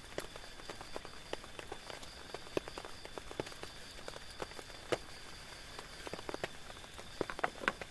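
Rain falling on a tent, individual drops tapping irregularly over a soft hiss, with a quick cluster of louder taps near the end.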